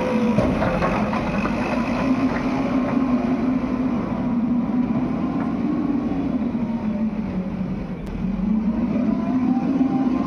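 Heavy diesel earthmoving engine running hard during soil loading. Its pitch sags about seven seconds in and climbs back up near the end.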